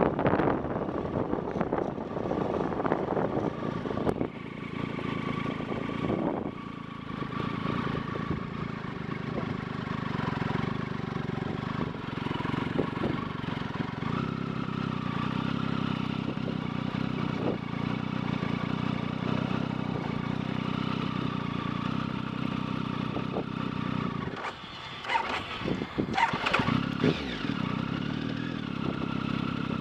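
Motorcycle engine running at steady revs while riding. About 24 seconds in the engine note breaks off, and a few seconds of clattering follow.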